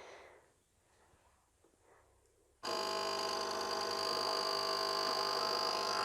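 Krups Dolce Gusto Genio S Touch capsule coffee machine's pump starting suddenly about two and a half seconds in. It gives a loud, steady electric buzz for about three and a half seconds, then cuts off.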